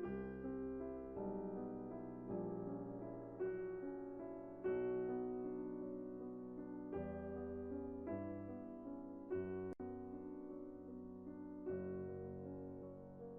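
Background piano music: soft sustained chords, with a new chord struck about every second. There is a brief click and dropout near the middle.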